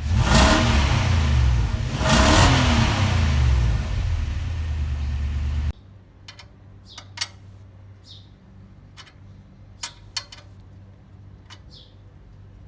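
Nissan Patrol engine revved twice from idle, its pitch rising and falling with each blip, then settling back to idle, through the exhaust without the turbo whistle fitted. About six seconds in the engine sound cuts off abruptly, leaving a quiet background with scattered clicks and a few short high chirps.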